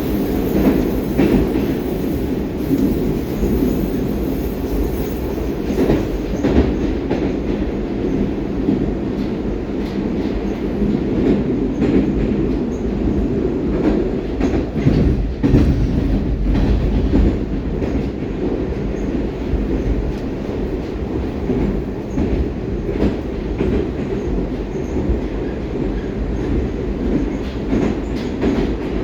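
Inside a 'Baltiets' metro train running at speed through the tunnel: a steady, dense rumble of wheels and running gear, with scattered clacks from the track.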